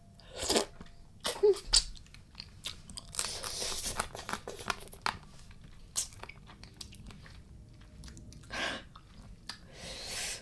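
A person chewing and crunching mouthfuls of spicy Thai raw blue crab salad: irregular sharp crunches between stretches of wet chewing.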